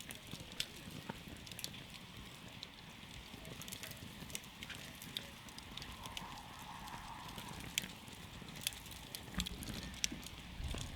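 Campfire crackling: irregular sharp pops and snaps from the burning wood over a low steady rumble.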